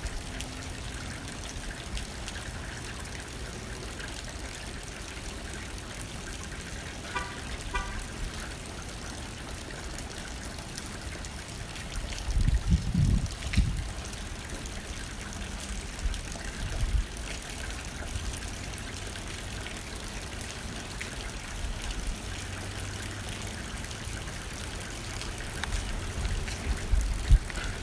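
Steady rain hitting a window pane with blowing wind. The wind comes in a few stronger low gusts, the loudest about twelve to fourteen seconds in.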